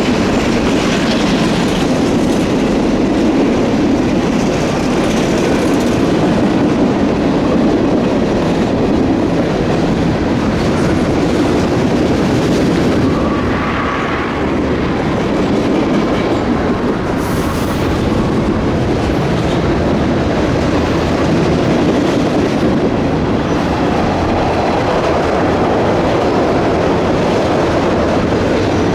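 Freight train cars rolling steadily past at trackside, their wheels clattering on the rails.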